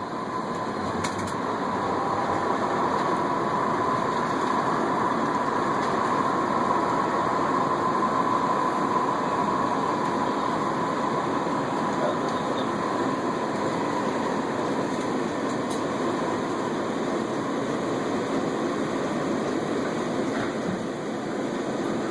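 Ride noise heard from inside a moving San Francisco Muni transit vehicle: a steady running rumble, with a thin whine that fades out about halfway through.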